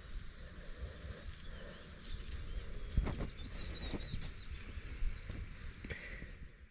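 Birds chirping in quick runs of short high notes, over scattered dull thumps and rustling from hands pulling weeds and breaking up garden soil.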